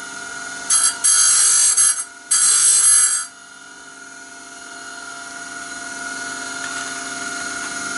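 A small high-speed power grinding tool running with a steady whine while sharpening the teeth of a band saw blade. Two short bursts of harsh grinding, each about a second long, come in the first three seconds as the tool touches the teeth.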